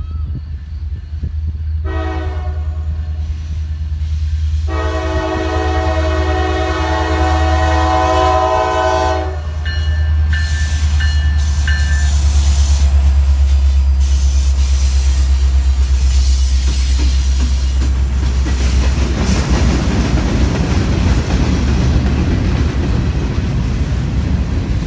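Norfolk Southern SD60E diesel locomotive sounding its horn for the grade crossing: a shorter blast, then a long blast of about five seconds, over the low drone of its diesel engine. After the locomotive passes, the freight cars roll by with a steady rumble and clatter of wheels on rail.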